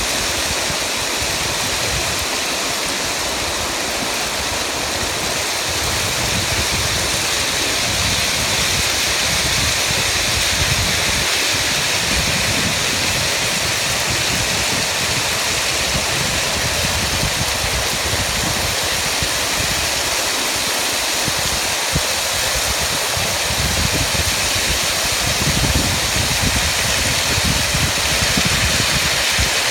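Fast-flowing floodwater rushing through a breach in a pebble beach: a loud, steady roar of torrent water with an uneven low rumble beneath it.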